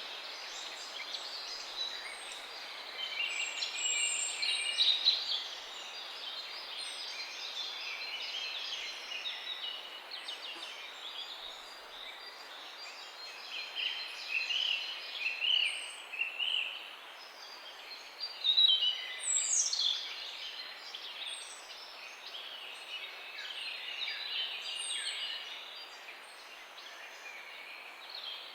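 Many small songbirds chirping and trilling over a steady outdoor hiss, with busier, louder bursts of song a few times.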